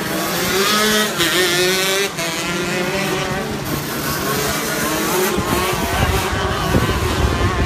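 A shifter kart's 125cc two-stroke engine at racing revs, its pitch climbing and dropping back several times as it works through the gears. A low rumble joins about five seconds in.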